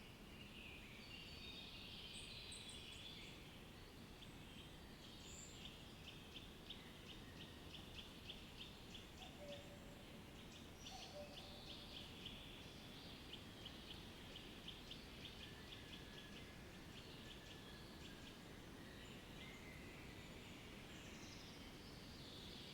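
Faint outdoor nature ambience with birds chirping high and thin over a low steady hiss, and a long run of rapid, evenly spaced high ticks from about five seconds in until about seventeen seconds.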